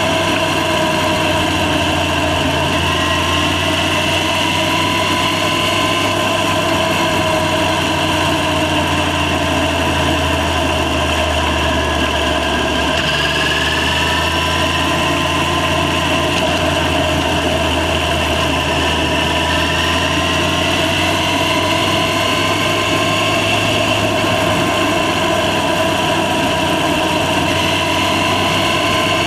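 Yamaha FZ6's inline-four engine running steadily, its pitch rising and falling slightly.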